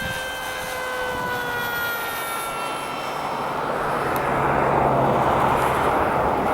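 Electric motor and propeller of a foam RC airplane in flight: a whine that slowly drops in pitch and fades over the first couple of seconds. A louder rushing noise then builds up.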